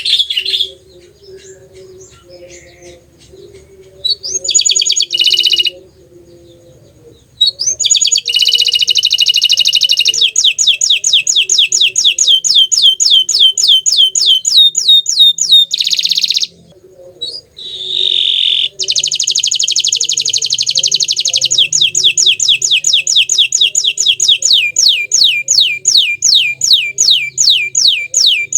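Domestic canary of the bottle-green colour variety singing: long phrases of rapid, evenly repeated falling notes in rolling trills, broken by a few short pauses.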